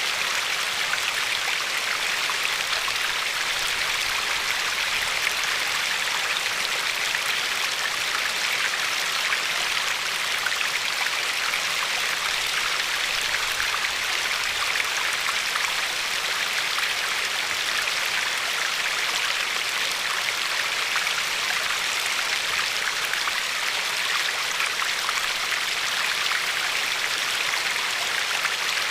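A river flowing and lapping over a pebbly shore: a steady, even rush of water with a fine splashing texture.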